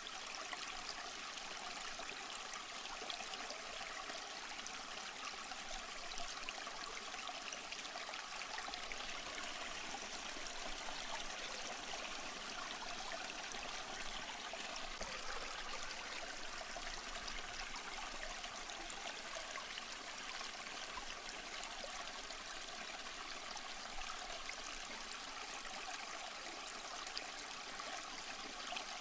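Small rocky stream flowing steadily, water trickling and splashing over stones in an even rush.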